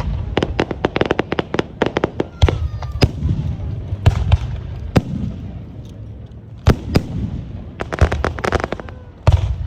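Aerial fireworks exploding in rapid volleys: many sharp bangs, dense in the first few seconds and again near the end, with the low rumble of the bursts echoing between them.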